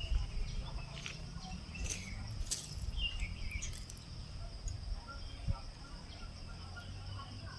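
Forest ambience: a steady, high-pitched drone of insects, with a few short bird chirps about three seconds in and a low rumble underneath.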